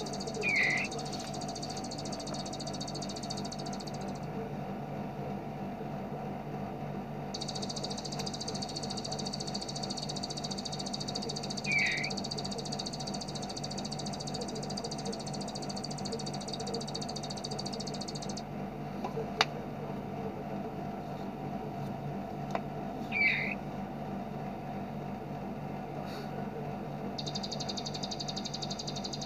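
Bar-winged prinia (ciblek) song: long, very fast rattling trills, the machine-gun 'ngebren' type, in three runs with gaps between. A short, loud chirp sounds three times about eleven seconds apart, over a steady low hum.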